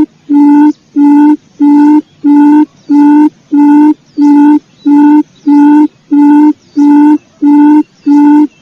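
Quail lure call: a low hooting note repeated at an even pace, about one and a half a second. Faint short upward chirps from another bird come in over it now and then.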